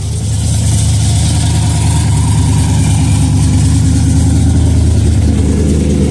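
Chevrolet big-block V8, a 396 built out to 402 cubic inches, in a 1967 Super Sport, running loud and steady at idle.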